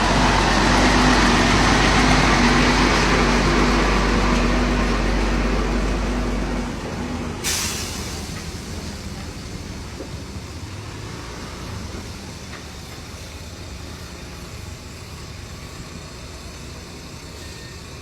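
Heavy diesel machinery running hard under load, then easing off about six and a half seconds in. A short, sharp hiss of released air follows a second later, and the engines keep running more quietly.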